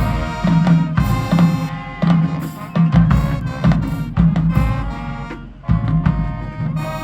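Marching band playing: brass over drums and a steady beat of low notes.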